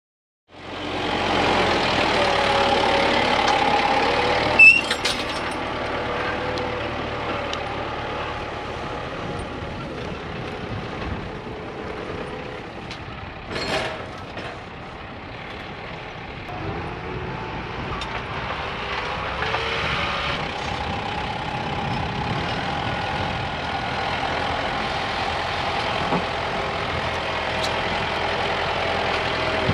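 Kubota tractor's diesel engine running at work, its pitch rising and falling with engine speed. A sharp knock about four and a half seconds in, and a smaller one about fourteen seconds in.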